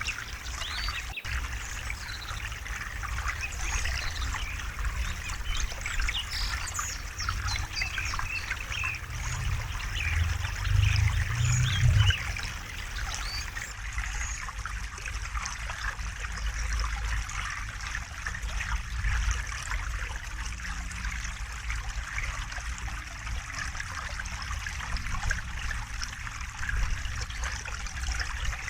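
A river running over stones: a steady babbling of water, with small birds chirping over it in the first half. There is a louder low rumble about ten to twelve seconds in.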